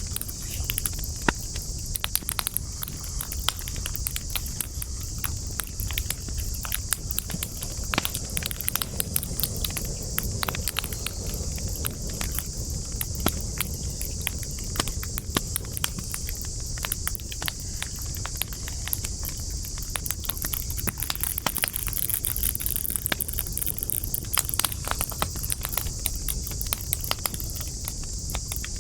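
Wood fire crackling, with frequent irregular sharp pops and snaps over a steady high hiss and a low rumble.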